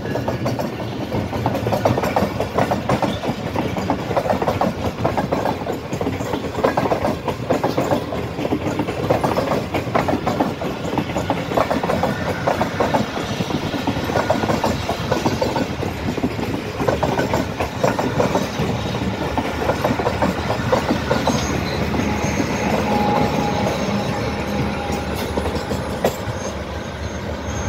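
Pakistan Railways passenger coaches rolling past, wheels clattering over the rail joints in a rapid, uneven run of clicks over a steady rumble, easing a little near the end as the last coach pulls away.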